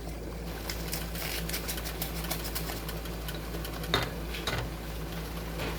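Rapid small clicks and crackles of food cooking in a pan on the stove, with a sharper tap about four seconds in, over a steady low hum.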